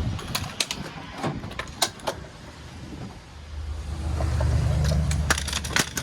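Heavy loaded slide-out tray rolling along its rails into a truck bed: scattered metallic clicks and knocks, then a low rumble that builds for about two seconds, with a few sharp clanks near the end.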